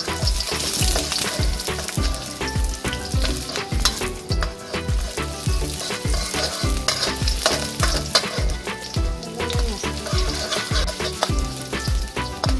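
Sliced shallots, garlic and galangal sizzling in hot oil in a wok while a spatula stirs them, over background music with a steady beat.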